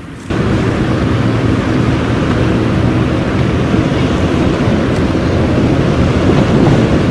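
Boat engine running steadily at a constant speed. It comes in abruptly about a third of a second in.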